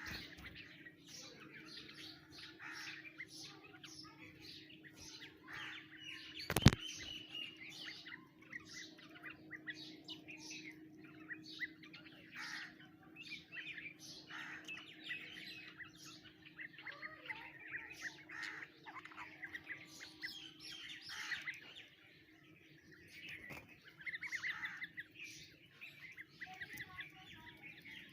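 Birds chirping and calling, many short overlapping chirps throughout. A single sharp click comes about six and a half seconds in, over a faint steady low hum.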